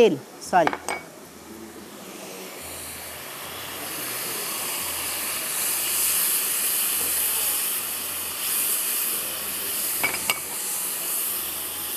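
Spiced oil in a karahi sizzling as a ground coconut masala goes in. The sizzle swells over the first few seconds, then holds steady. A single click comes about ten seconds in.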